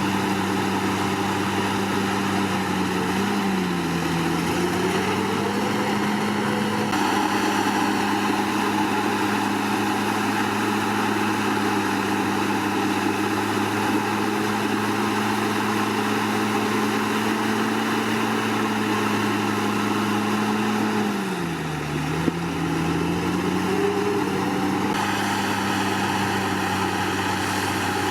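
Komatsu D61PX bulldozer's diesel engine running steadily at working revs. Its pitch dips twice, about three seconds in and again near the end, and recovers each time, as it pulls down under load. A single short click comes about twenty-two seconds in.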